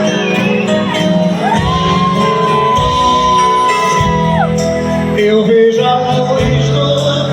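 Live sertanejo band music between sung lines, with shouts over it; a long held melody note slides down about four and a half seconds in.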